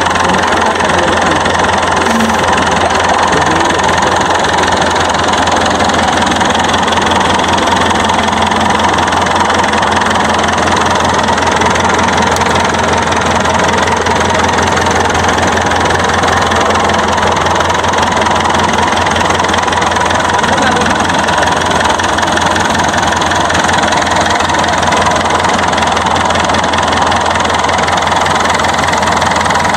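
TAFE Gajraj 5900 DI tractor's diesel engine idling steadily.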